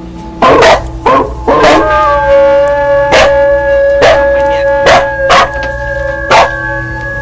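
Buddhist temple bell struck again and again at uneven intervals, about eight strikes, each clang leaving a long steady ring that carries on under the next.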